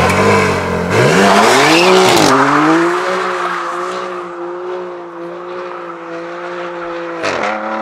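BMW M2's turbocharged straight-six revving hard with the rear tyres spinning and squealing in a smoky burnout, the engine pitch rising and falling over the first two seconds or so. It then holds a steady pitch, fading as the car pulls away, and near the end dips sharply and climbs again as it shifts gear.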